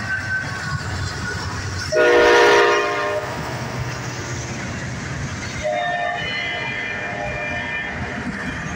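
Freight locomotive air horn sounding a loud blast about two seconds in, then again more quietly from about six to eight seconds. Underneath is the steady rumble of the diesel locomotives and freight cars rolling past, with wheels clicking over the rails.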